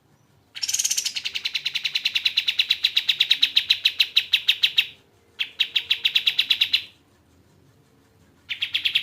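A kapas tembak songbird singing a rapid rattling trill of evenly repeated notes, about ten a second. It comes in three runs: a long one, a short one after a brief gap, and a third starting near the end.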